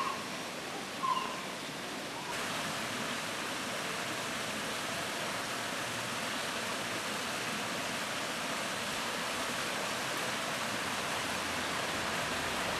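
Steady rush of running water, stepping up in level about two seconds in.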